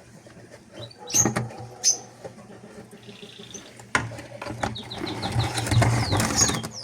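Lovebirds chirping in an aviary: a couple of short high calls early, then a run of quick falling chirps in the second half, over rustling and a few sharp knocks.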